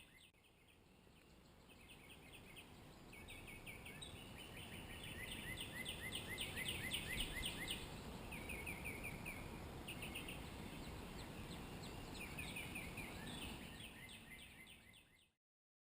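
Faint birdsong: several birds singing rapid trills of short, repeated chirping notes. It fades in about a second in and stops abruptly near the end.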